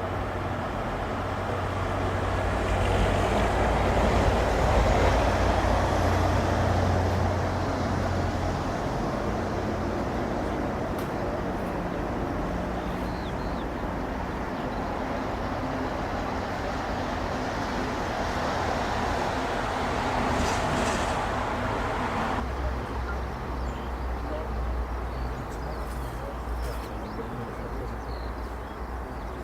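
Jet airliner engine noise, a steady rushing sound that swells about 4 seconds in and again about 20 seconds in, then changes abruptly about 22 seconds in.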